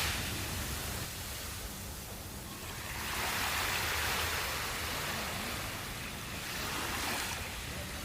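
Sea waves washing onto a sandy beach: a steady surf hiss that swells twice, about three seconds in and again near the end, as waves break.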